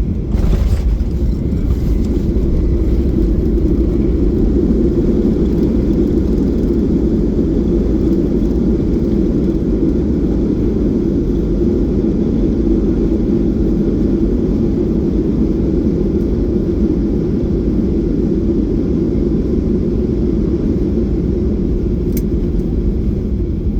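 Boeing 737-800 jet noise during landing: a loud, steady low rumble of engines and rushing air, with a brief noisy burst about half a second in.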